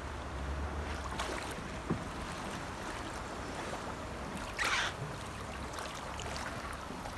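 Water moving over a steady low rumble, with a short hissing puff about four and a half seconds in.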